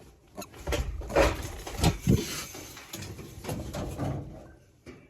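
A sow pushing against a pen gate, knocking and rattling it in a series of thuds, loudest a second or two in.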